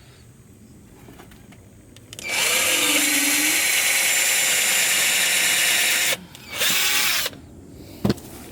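Power drill driving a screw into wood: one steady run of about four seconds, its pitch sagging briefly as the screw bites, then a short second burst.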